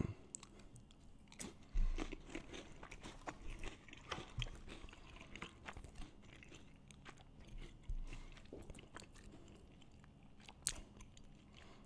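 Quiet, close crunching and chewing of a cracker topped with chicken salad, in small irregular crackles.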